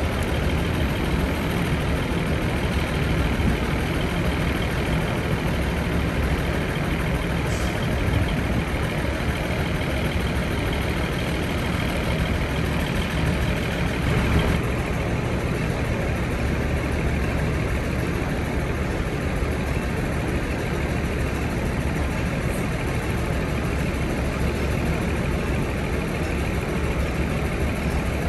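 Diesel engine of a DR2100-series railcar running steadily, a continuous low engine drone with broad noise over it; the higher hiss eases slightly about halfway through.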